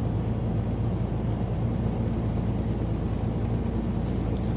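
Steady low drone and road noise inside a semi-truck cab cruising at highway speed, with a brief click near the end.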